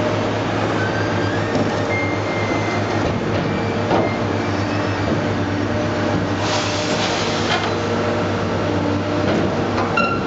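Engine of a heavy grapple machine running steadily under load while it swings a scrapped aluminium boat, with a few short high metal squeaks and a knock about four seconds in.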